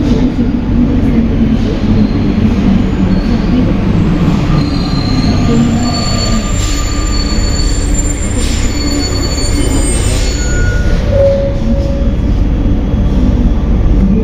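Alstom NS-93 rubber-tyred metro train running, heard from inside the car: a loud, steady running rumble. From about four seconds in to about eleven seconds, thin high-pitched squeals come and go over it.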